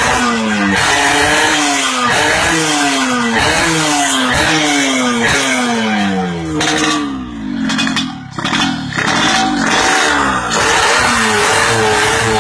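Yamaha RX-King's single-cylinder two-stroke engine through an aftermarket under-slung exhaust, revved in sharp throttle blips about once a second, each falling away in pitch. Past the middle the revs drop off for a second or two, then the engine settles into a steadier note near the end.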